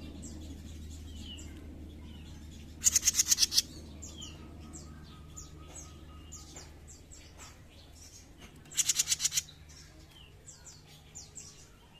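Small songbird (the 'jenggot mini' of Indonesian bird keepers) singing: short, thin, falling high chirps throughout. Twice, about three seconds in and again about nine seconds in, a loud rapid rattling trill of about ten notes cuts in, lasting under a second each time.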